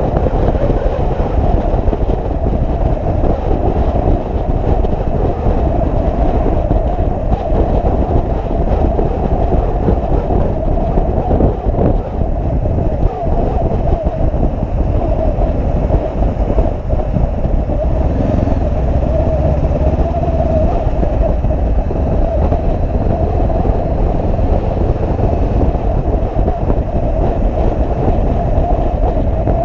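Motorcycle moving at a steady speed: a constant rush of wind and road noise over the running engine, with no clear throttle changes.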